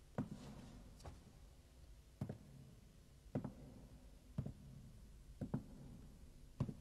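Slow footsteps, about one step a second with a sharp tap and a short low thud on each, one step doubled near the middle.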